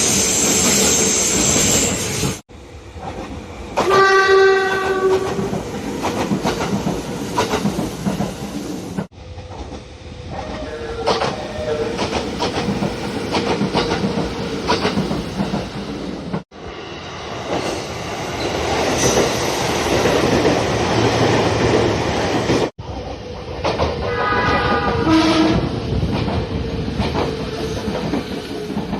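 Nagano Electric Railway express trains running past in a string of short clips, wheels clicking over rail joints, with a horn sounding about four seconds in and again near the end.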